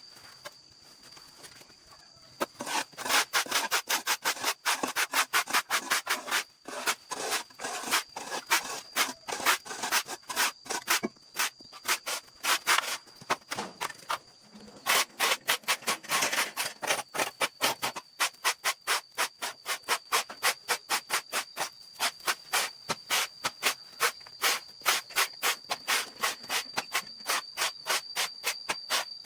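A stiff brush or broom worked back and forth over a hard surface in quick, even scrubbing strokes, about two to three a second, starting a couple of seconds in. A faint steady high whine runs underneath.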